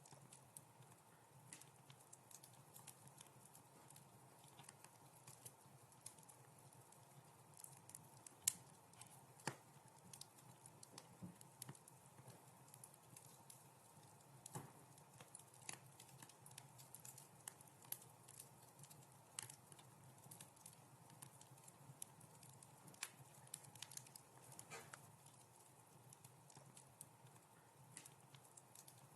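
Wood fire crackling faintly in a fireplace: irregular small pops and snaps over a steady low hiss, with one sharper pop about eight and a half seconds in.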